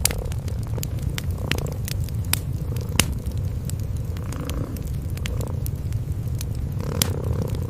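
Cats purring in a steady low rumble, with a wood fire crackling over it in scattered sharp pops, the loudest about three seconds and seven seconds in.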